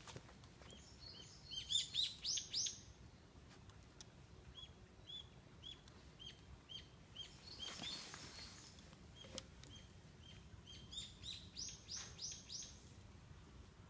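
Songbird calling: a steady run of short chirps, about two a second, with louder bursts of quick, sweeping notes about two seconds in and again near the end.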